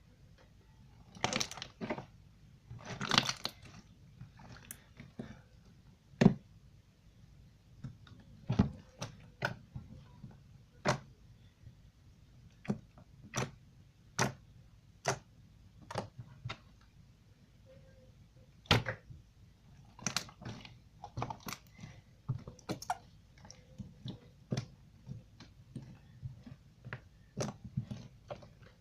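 Sand slime being poked and pressed with fingers: irregular sharp pops and crackles, about one or two a second, some followed by a short squish.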